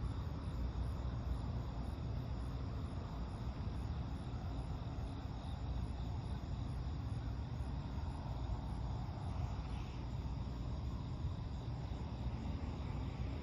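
Steady low rumble of distant road traffic, with a faint high insect chirp, most likely crickets, repeating at an even pace.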